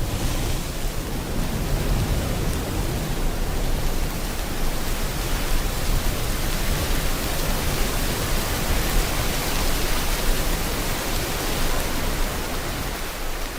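Steady rain mixed with ocean waves, blending into one continuous hiss with a slowly shifting low rumble.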